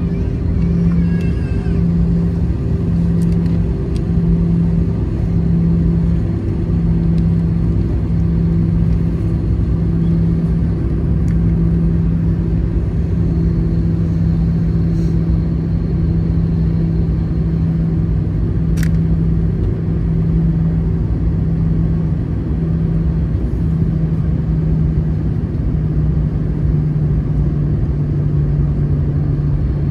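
Airbus A320-214 cabin noise in flight: a steady rushing drone from the airflow and its CFM56 turbofan engines, with a low hum that swells and fades every second or two. A single faint click comes about two-thirds of the way through.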